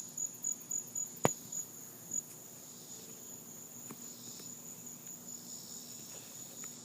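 Cricket chirping in a high, rapid pulse of about four chirps a second that turns into a more even trill, with one sharp click about a second in.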